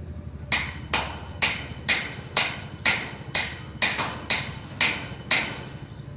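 A hammer striking about ten times in a steady run, roughly two blows a second, each blow sharp with a short ring after it.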